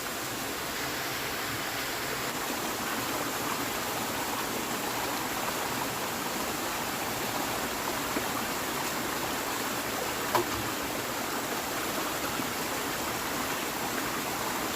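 Steady rushing of water, with one sharp click about ten seconds in.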